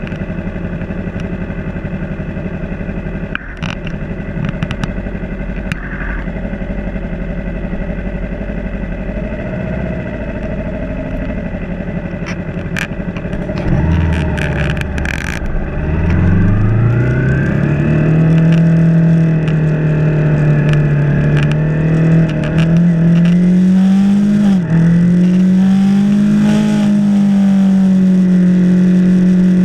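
Yamaha R3's parallel-twin engine idling at a stop, then revving up as the motorcycle pulls away about halfway through, rising in pitch and settling into a steady run with one quick dip in pitch near the end.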